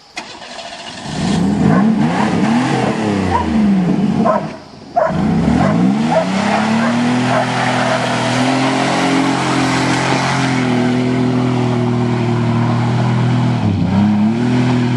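Car engine revving hard, its pitch swinging up and down, briefly dropping out about four and a half seconds in, then climbing and holding at high revs.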